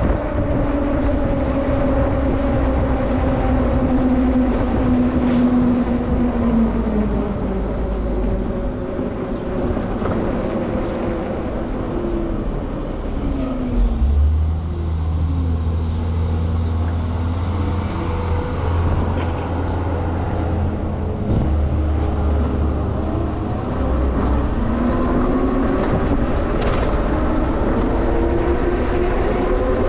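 Ride aboard a train: the motors' whine falls in pitch as it slows to a stop. A steady low hum follows while it stands, then the whine rises again as it pulls away.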